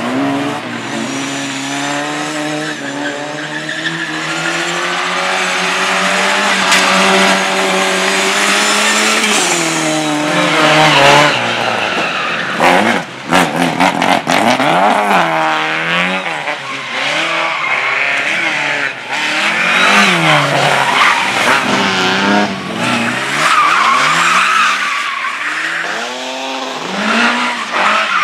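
Slalom race car at full throttle. For the first nine seconds or so the engine note climbs steadily, then it rises and falls rapidly as the throttle is worked through the turns. Tyres squeal and skid on the asphalt.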